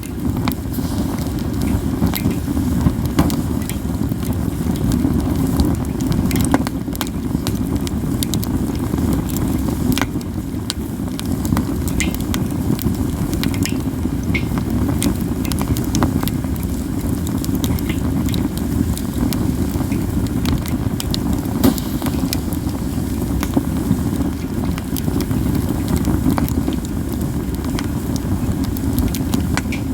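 Campfire of katsura wood burning, crackling constantly with scattered sharp, loud snapping pops over a steady low rush.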